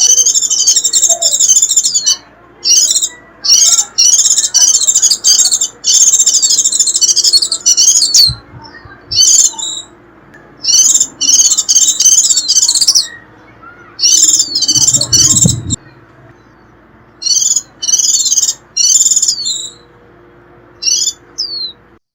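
White-eye giving rapid, high-pitched twittering 'rít' calls in bursts of one to three seconds with short pauses between them. This is the call used as a lure recording to draw in wild white-eyes.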